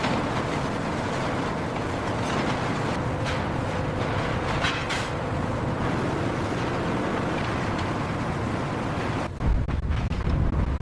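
Steady rumble and hiss of heavy machinery with a faint hum. About nine seconds in it changes to a deeper rumble with a few sharp knocks.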